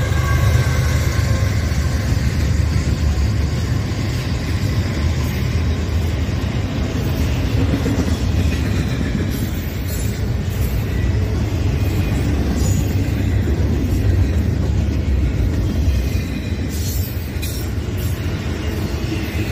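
CSX double-stack intermodal freight train rolling past close by: a steady low rumble of wheels on rail as the container well cars go by.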